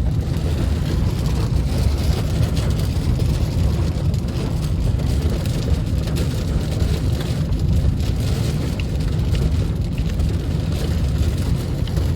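Heavy hail falling in a severe thunderstorm: a loud, dense, steady clatter of hailstones, with strong wind rumbling on the microphone underneath.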